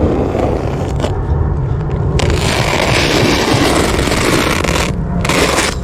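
Strong wind buffeting the microphone, a steady low rumble, with a loud scraping hiss from about two to five seconds in and again briefly near the end.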